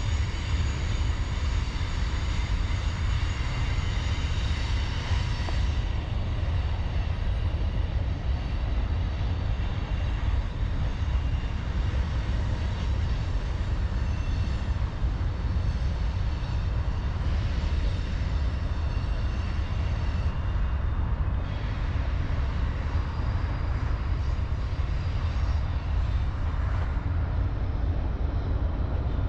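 Diesel freight locomotives running steadily: a low rumble with several steady high tones above it, some of which fade about six seconds in.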